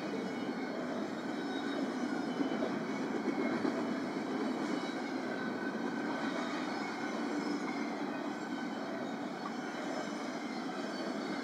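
BNSF intermodal freight train rolling past, a steady rumble of wheels on the rails.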